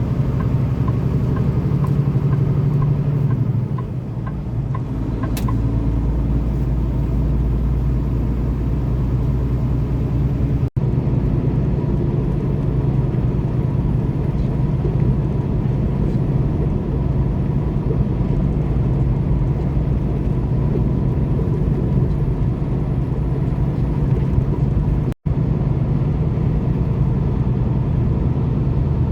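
Semi-truck's diesel engine running steadily at low speed with a low hum, easing off briefly about four seconds in.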